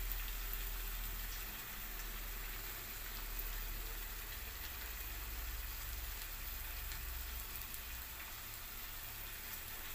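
Onion-tomato-yogurt masala gravy frying in a nonstick kadhai: a steady, even sizzle.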